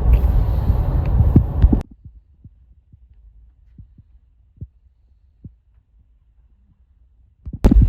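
Low vehicle rumble with wind noise that cuts off abruptly about two seconds in, leaving near quiet broken by a few faint low thuds until loud sound returns just before the end.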